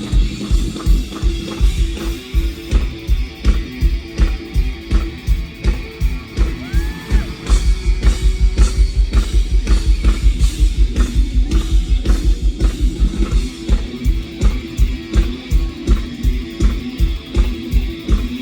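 Live rock band playing an instrumental intro: guitar over a steady kick-drum beat, which quickens for a few seconds around the middle.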